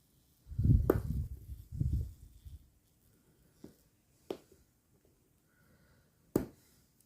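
Handling noise of a rubber inner tube being worked by hand: low rubbing and scuffing for about two seconds, then three short sharp clicks or taps, the last one the loudest.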